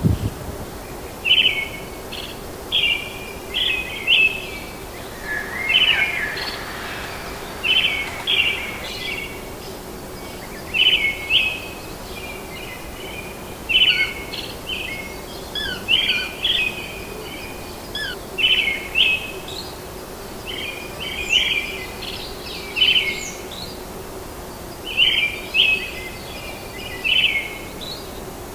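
Birds calling in short, repeated chirping phrases every second or two, over a steady background hiss and a faint low hum.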